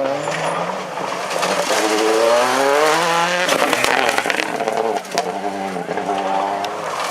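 Rally car engine accelerating hard, its pitch rising twice with a gear change between, and a burst of sharp clattering knocks about halfway through.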